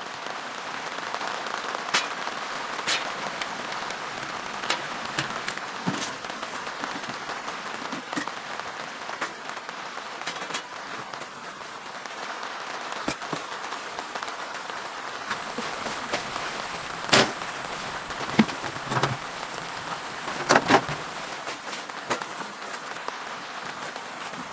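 Steady rain pattering on a tent or tarp, with scattered sharp pops and knocks, the loudest coming in a cluster about two-thirds of the way through.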